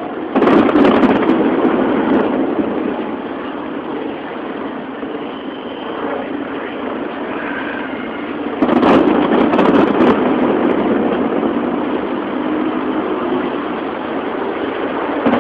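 Distant aerial fireworks shells bursting: two sudden booms, about half a second in and about eight and a half seconds in, each followed by several seconds of rolling rumble that slowly dies away, with some crackle at the start of each.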